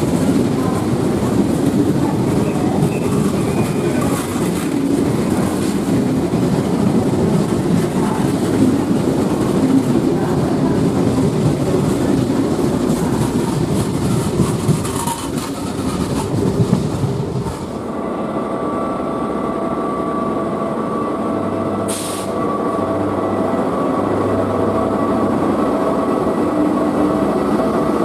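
TER train of Corail coaches rolling past along a station platform: a dense, steady rumble of wheels on rail. About two-thirds through it gives way to the steadier hum of an SNCF BB 22200 electric locomotive moving slowly beside the platform, with several held whining tones and a brief high hiss.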